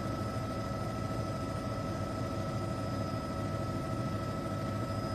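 Steady drone of a news helicopter's engine and rotors heard through its intercom feed, a constant hiss with several fixed whining tones and a low rumble underneath.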